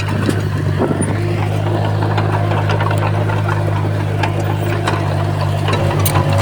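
Komatsu D31P crawler bulldozer's diesel engine running steadily under load, with scattered metallic clicks and clanks throughout. The engine note pulses briefly near the end.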